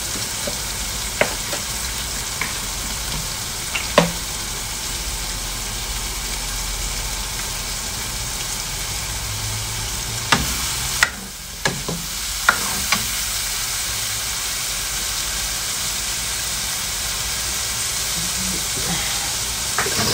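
Chicken gizzards and liver frying in a steel wok with a steady sizzle. A metal ladle stirs them, knocking and scraping against the pan in sharp clinks now and then.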